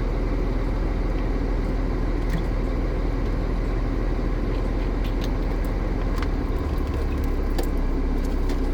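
Truck engine running steadily, a continuous low rumble; its deepest tone shifts about six seconds in, with a few light clicks over it.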